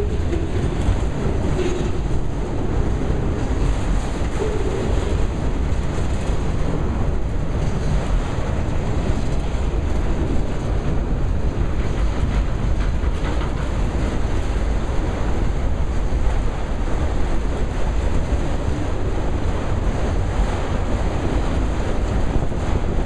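Freight train of enclosed autorack cars rolling past close by: a steady, loud rumble and rattle of steel wheels on the rails, with occasional faint clicks.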